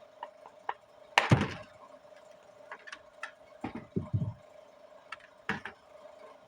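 Dry lumps of multani mitti (Fuller's earth clay) crunching and snapping: a loud crack a little over a second in, a cluster of crunches around four seconds, and another sharp crack near the end, with small clicks between. A faint steady hum runs underneath.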